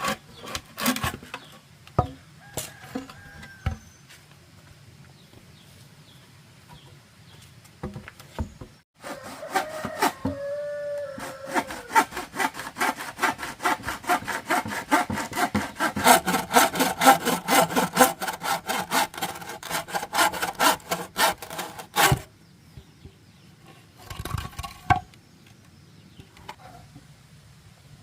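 Hand saw cutting bamboo in fast, even strokes, about five a second. It comes in short bouts near the start and again near the end, with one long steady run through the middle.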